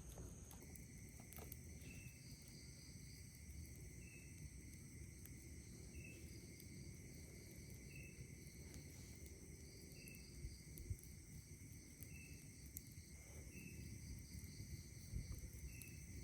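Night insects: a steady shrill drone and pulsing cricket trills, with one short chirp repeating about every two seconds. A low rustle of breeze sits underneath, and a couple of faint campfire crackles come about two-thirds of the way in and near the end.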